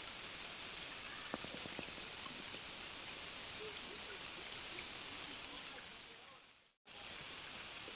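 Waterfall rushing: a steady hiss of falling water that fades and drops out briefly near the end, then comes back at the same level.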